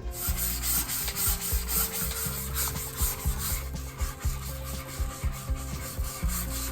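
Hand sanding of cured epoxy fairing compound on a rudder blade with a flexible Mirka long-board sanding block: a steady run of rasping back-and-forth strokes, smoothing the filler flat.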